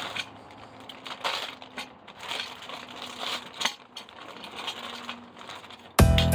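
Irregular light clicks, clinks and rustling of objects being handled, over a faint steady hum. Loud music cuts in abruptly near the end.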